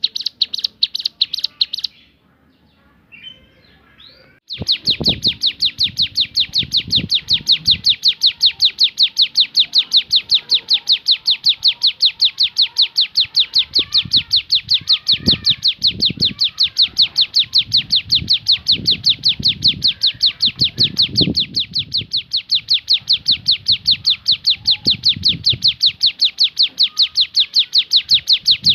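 Ciblek gunung (a prinia) singing its rapid-fire 'tembakan' song: a fast, even string of high chipping notes that pauses briefly and resumes about four seconds in, then keeps going without a break.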